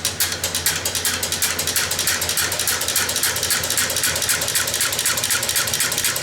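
A 1908 Matheson four-cylinder engine being turned over by a belt-driven sewing machine motor, its camshaft-driven make-and-break ignitor mechanism clicking rapidly and evenly over a steady low motor hum. This is the mechanical action alone, with no current applied, so there are no sparks.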